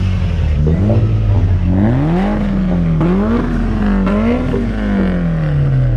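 Car engine revved in repeated short blips while parked, its pitch climbing and dropping several times before it settles slowly back toward idle near the end.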